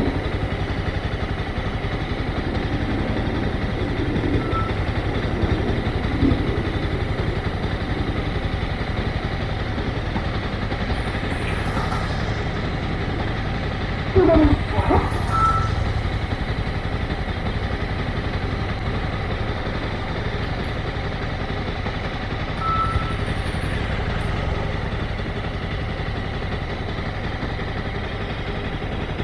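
Motorcycle engine running steadily at low speed. Short high beeps sound three times, and a brief louder burst with sliding pitch comes about halfway through.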